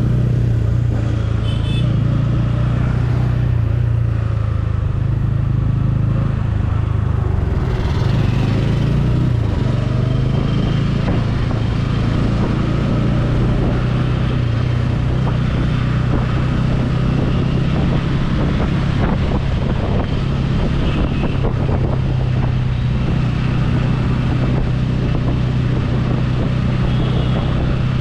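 Motorcycle engine running steadily while riding, a low even drone with road and wind noise, its pitch shifting briefly about eight seconds in.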